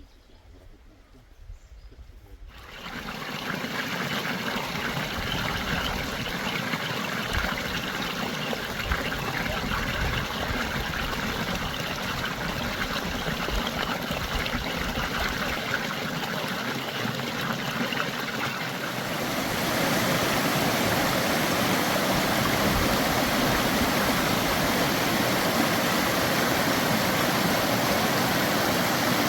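Stream water running steadily, coming in a few seconds in and growing louder about two-thirds of the way through.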